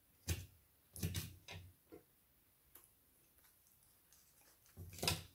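Close-up eating sounds of a crispy deep-fried onion bhaji: a few sharp crunches and mouth clicks in irregular bursts, the loudest near the end.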